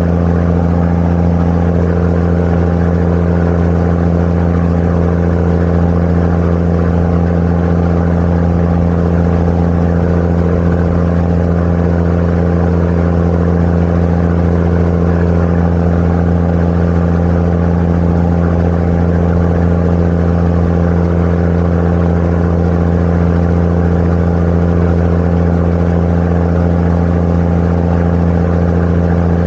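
Sightseeing boat's engine running steadily at cruising speed, a constant low hum with no change in pitch.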